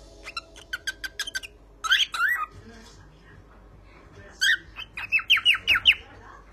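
Pet cockatiel singing: a run of short chirps, then two louder swooping whistles about two seconds in, and after a pause a quick series of about five falling whistled notes near the end.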